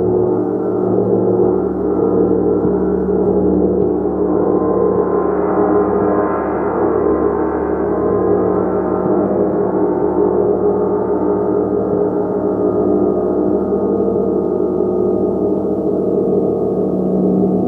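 A gong being played continuously, a dense shimmering wash of many overlapping tones that swell and beat against each other, held steady with no clear single strikes standing out.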